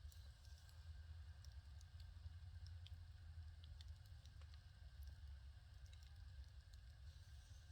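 Wood fire crackling faintly: scattered, irregular sharp pops and snaps over a low steady rumble.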